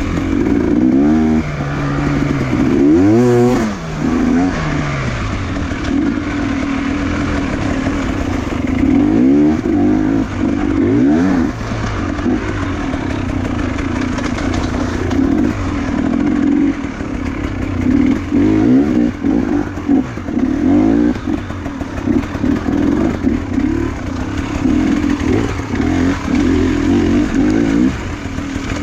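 Enduro motorcycle engines running steadily and revving, their pitch rising and falling again and again; at times the revs of more than one bike overlap.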